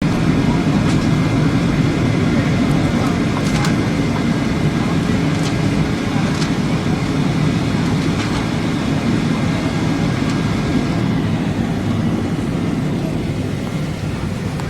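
Cabin noise aboard a Boeing 757-300 while landing: a steady rumble of airflow and its Pratt & Whitney PW2040 engines, easing a little near the end, with a few faint clicks early on.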